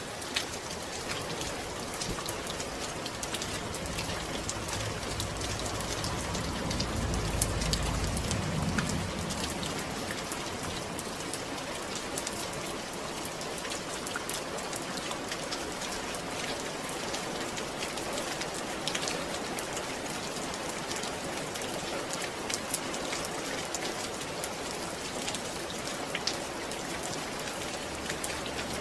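Steady rainfall, with individual drops heard as sharp ticks over an even hiss. A low rumble swells and fades about five to nine seconds in.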